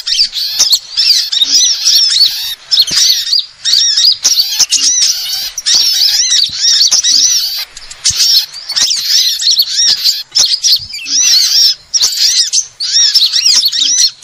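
Bird-lure recording of small songbirds, sold as a call for Indonesian 'kolibri' (sunbirds): dense, rapid, high-pitched twittering and chirping. It comes in repeated bouts about a second long with short breaks between them.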